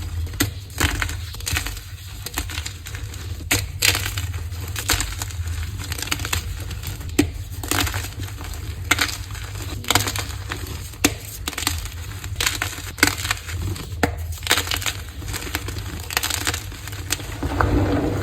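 Dyed blocks of gym chalk being crushed by hand, with irregular crisp cracks and crumbling crunches.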